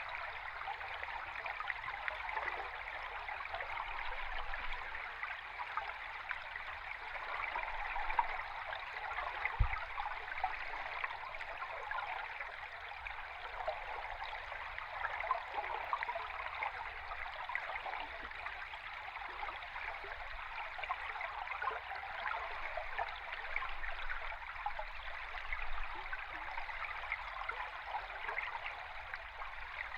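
Flowing river water heard underwater: a steady rush full of fine bubbling crackle. There is one brief low knock about ten seconds in.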